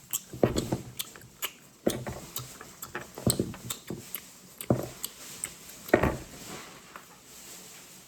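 Small plastic toys clicking and knocking against each other and a hard surface as they are handled and sorted, in irregular taps.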